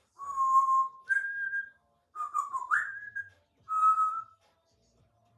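African grey parrot whistling four clear notes: a steady low note, a higher note, one that dips and then slides upward, and a shorter middle note.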